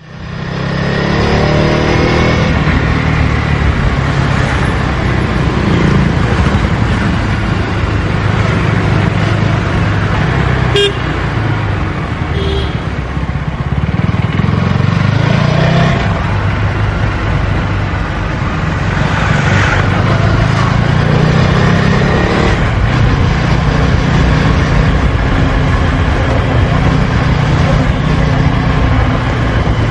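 KTM Duke 250 Gen3's single-cylinder engine through its stock exhaust, riding in city traffic with the engine note rising and falling as it accelerates and eases off. Short vehicle horn toots sound around a third of the way in.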